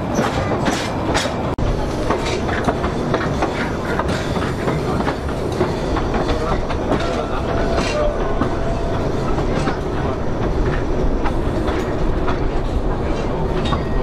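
Narrow-gauge railway carriage running along the track, heard from the carriage window: a steady rumble of wheels on rail with irregular clicks and knocks as the wheels cross rail joints.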